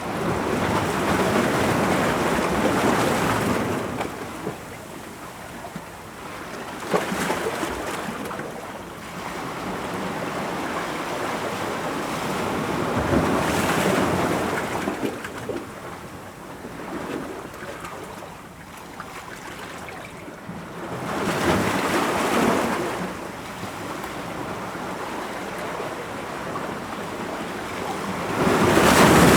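Ocean waves breaking on rocks, a steady wash of surf that swells into a louder crash every several seconds.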